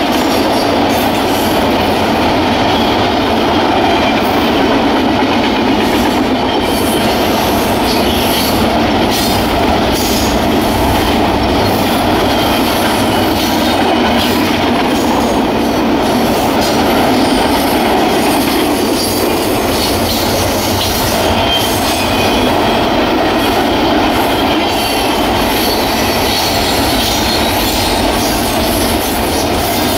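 Double-stack intermodal container train's cars rolling past on steel rails: a steady, loud rolling noise with scattered clicks and knocks from the wheels and couplings.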